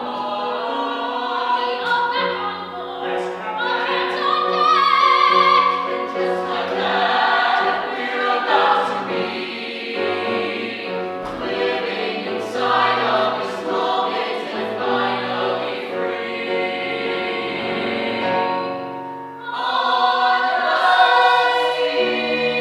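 Ensemble of voices singing a musical-theatre number in harmony, with sustained held notes. Near the end the sound briefly drops away, then the voices come back in together.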